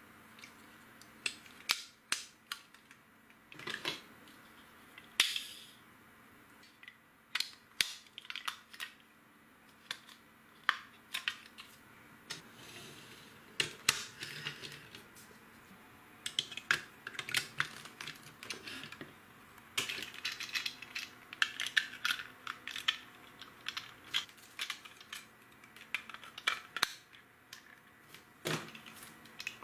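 Plastic LEGO pieces clicking and rattling as they are handled and pressed together, in irregular bursts of sharp clicks.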